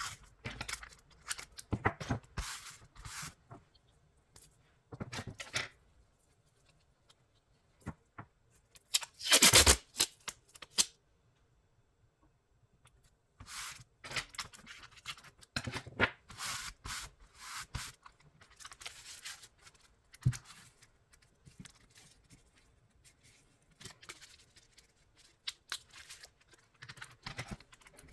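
Tape being pulled off the roll, cut and rubbed down onto a mechanical keyboard: irregular bursts of tearing, snipping and scraping with short pauses between, the loudest a long tearing strip about nine seconds in.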